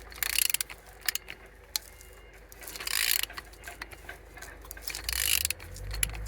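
The crankshaft of a Hyundai/Kia G4EE 1.4-litre four-cylinder engine being turned over by hand with a ratchet wrench: ratchet and mechanism clicks, with three short rushes of air about two and a half seconds apart as the cylinders come up on compression, a sign the engine turns freely and holds compression.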